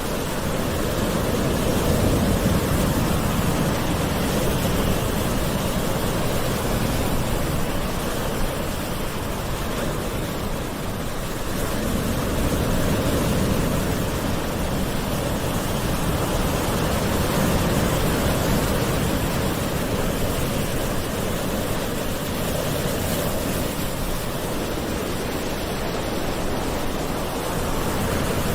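Calm ocean waves washing on a shore: a continuous hiss of surf that slowly swells and eases.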